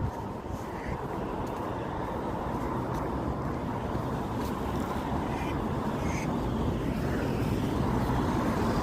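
Steady low rumbling noise like a running vehicle, growing slowly louder, with a few faint short calls above it.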